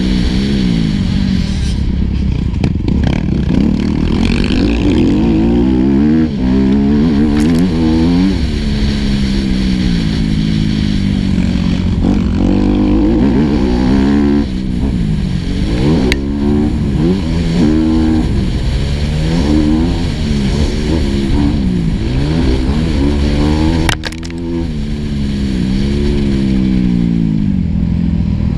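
Four-stroke motocross bike engine heard on board, revving hard and backing off again and again as the rider works the throttle round the track, its pitch climbing and dropping every second or two. A few sharp clacks cut in along the way.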